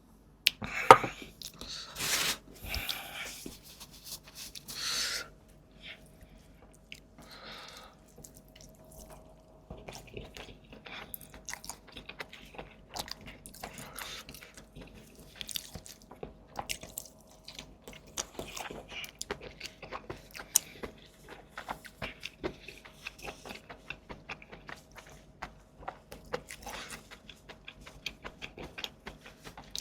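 Close-miked eating: a few louder bites in the first five seconds, then steady chewing with many small wet mouth clicks and smacks.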